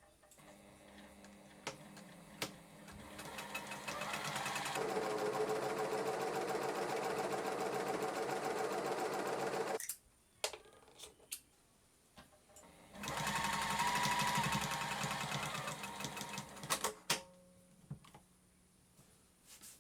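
JUKI SPUR 98 special N professional straight-stitch sewing machine stitching in two runs. The first builds up slowly, runs fast and steady for several seconds and stops suddenly; the second is shorter and comes a few seconds later. Sharp clicks come between and after the runs.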